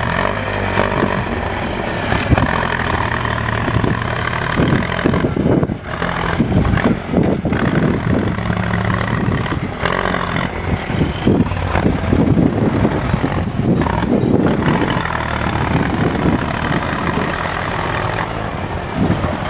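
Tractor engine running, working in mud, its note steady at first and then more uneven through the middle as the load changes.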